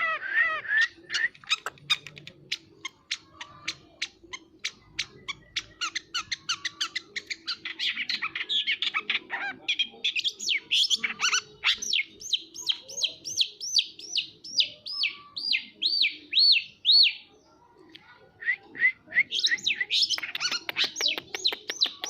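Long-tailed shrike (pentet) singing a long, busy song: fast runs of short clipped notes, then a string of repeated high swooping notes about two a second, a brief pause, and more rapid notes near the end.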